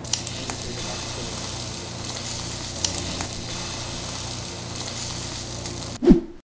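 Egg-battered oysters sizzling in oil on a hot griddle, with a few light clicks of a wooden spatula. A short, loud low thud falling in pitch comes near the end, then the sound cuts off.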